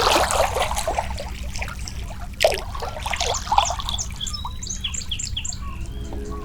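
Songbirds chirping and calling over trickling water, with a sudden sharp sound about two and a half seconds in and a quick run of high chirps near the end.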